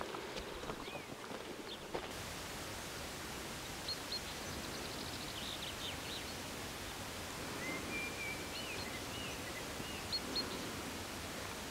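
Outdoor ambience: a steady hiss that comes in about two seconds in, with small birds chirping now and then in short high notes and brief whistles.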